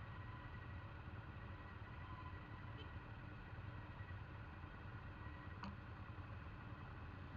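Faint, steady low rumble of a group of motorcycles idling while stopped at a traffic light, with a single faint click past the middle.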